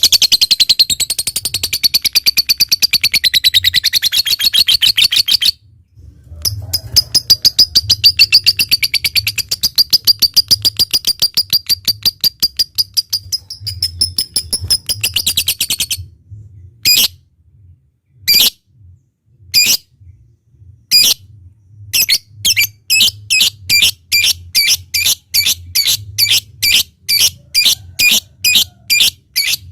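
Lovebird chattering in long, very fast trills of high notes (the 'ngekek' song), one run of about five seconds and another of about ten. After a short pause come separate sharp chirps, a second or so apart at first, then quickening to about two or three a second.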